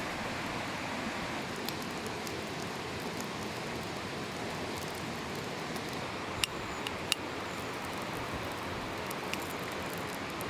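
Steady rushing of a mountain headwater stream, with a few sharp clicks at about six and a half and seven seconds in.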